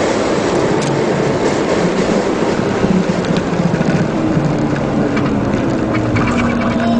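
Race car's engine running hard on a circuit lap, heard from inside the cabin, mixed with heavy wind and road noise.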